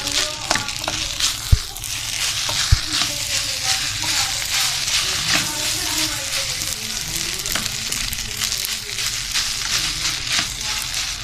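Chow mein noodles and vegetables sizzling in hot oil as they are stir-fried, with a steady hiss and the spatula scraping and clicking in the pan. Two sharp knocks come within the first three seconds.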